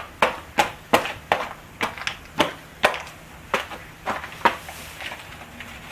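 Hard sleet pellets being crushed: a quick run of sharp crunches, about two or three a second, that thin out and stop about four and a half seconds in.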